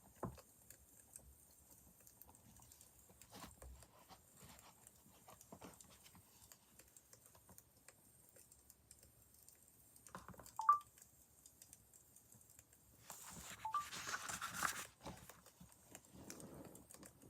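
Faint crackling of a wood fire, with scattered small pops. A short squeak about ten seconds in, then a louder rustle lasting about two seconds near the end.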